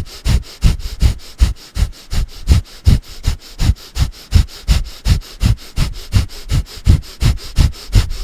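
Breath of fire: rapid, rhythmic forceful exhales through the nose, pumped from the navel, about three to four a second at a steady pace, like panting with the mouth closed.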